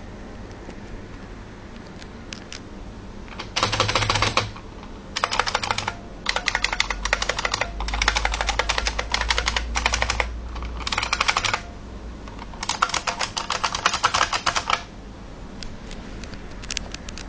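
IBM Model M keyboard's buckling-spring keys clicking under fast typing, in several bursts of rapid keystrokes with short pauses between them, starting a few seconds in.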